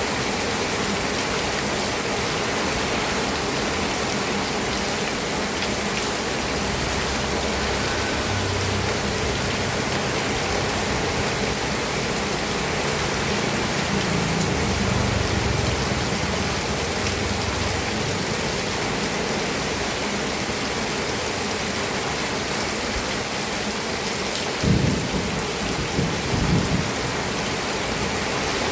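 Steady rain falling, an even hiss throughout. Low rumbles swell about halfway through, and a few short, dull low thumps come near the end.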